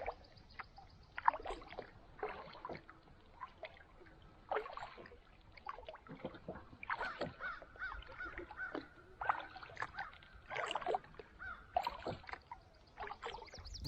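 Kayak paddling on calm water: a paddle dipping and water trickling and dripping, with birds calling now and then, including a repeated wavy call in the middle.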